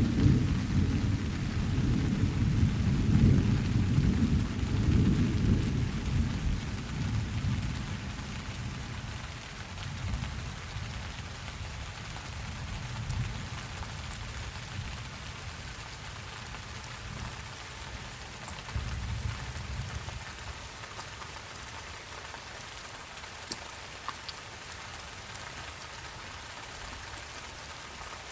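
Steady rain falling, with a rolling rumble of thunder that is loudest at the start and dies away over the first several seconds. A softer low rumble returns briefly about two-thirds of the way through.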